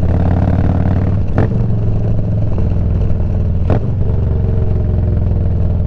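Motorcycle engine running steadily under way, with two sharp clicks about one and a half and three and a half seconds in where the engine note changes.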